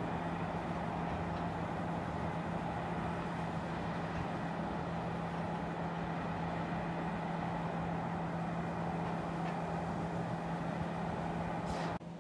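Freight train in a rail yard making a steady mechanical drone with a constant low hum. The sound cuts off abruptly near the end.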